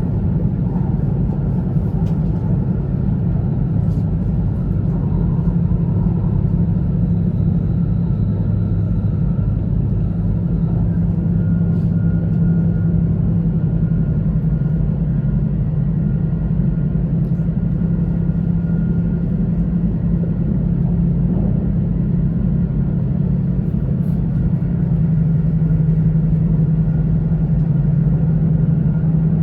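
Steady low rumble of an E2 series Shinkansen running along the line, heard inside the passenger cabin, with a faint steady high hum above it and a few light ticks.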